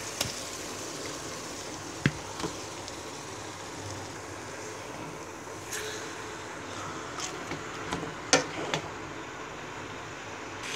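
Pieces of shing (stinging catfish) frying in spiced masala in a pan with a steady hiss. A spatula stirring them knocks and scrapes against the pan several times, loudest about two seconds in.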